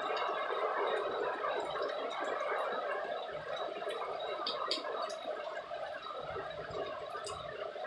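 Rain pattering steadily with a dense crackle, with a few sharp drip-like clicks.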